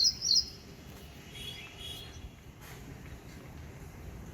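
A small bird calling: a quick series of high, repeated notes that ends about half a second in, then a few fainter chirps a second later over a faint outdoor background hum.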